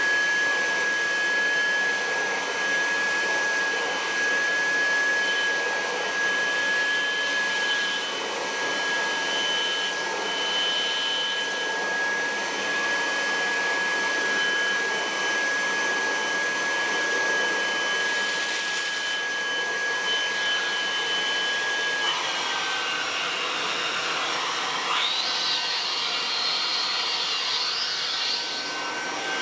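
Kirby Heritage II upright vacuum cleaner running, a steady motor hiss with a high whine. About three-quarters of the way through, the whine drops slightly in pitch and wavers.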